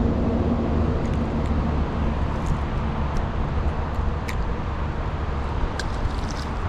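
Steady road traffic noise, a continuous low rumble with a few faint high ticks over it.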